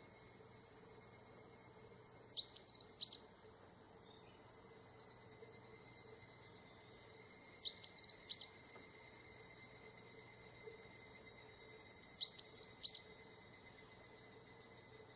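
Higurashi evening cicadas (Tanna japonensis) calling in three short bursts of rapid repeated notes, about five seconds apart, over a steady high-pitched insect drone.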